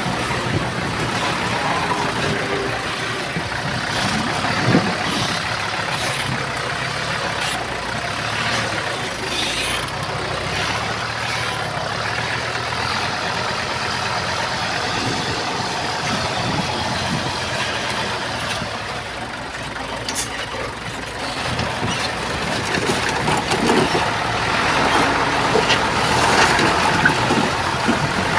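Diesel engines of heavy earthmoving machinery running steadily, with a few short metallic clanks; the engine sound grows louder about two-thirds of the way through.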